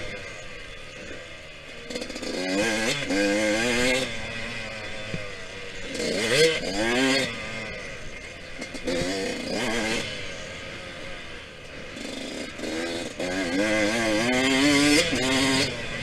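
Yamaha YZ125X two-stroke single-cylinder dirt bike engine revving up and falling off in about four rising pulls, with quieter off-throttle dips between them, as the rider accelerates and shuts off around the track.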